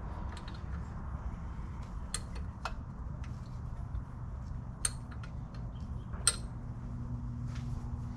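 Metal wrench clinking and tapping while loosening the carburetor hold-down nuts on a flathead V8: a few scattered sharp clicks, the loudest about six seconds in.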